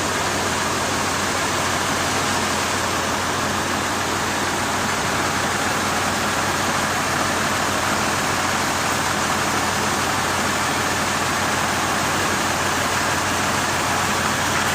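Steady machinery noise: a constant rushing hiss over a low hum, unchanging throughout.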